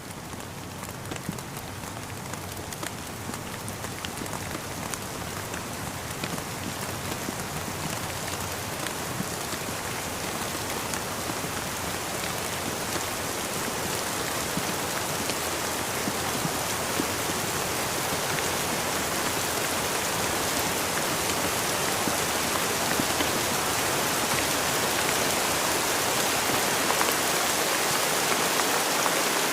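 Steady rain falling, a dense hiss flecked with the ticks of single drops, growing gradually louder throughout.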